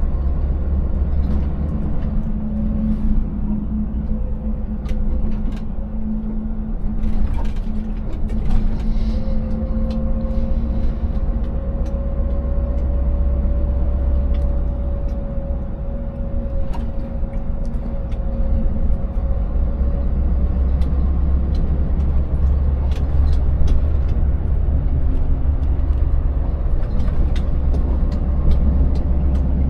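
Scania 590S truck's 16.4-litre V8 diesel engine running under way in a steady low drone, with scattered short knocks and rattles as the lorry, with its empty trailer, travels over a rough, broken road surface.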